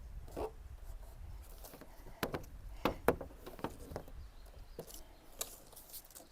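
Scattered light clicks and taps from handling the PVC drip-rail gutter and its sticky adhesive tape while it is pressed into place on the van, a few sharper clicks clustering in the middle, over a low steady rumble.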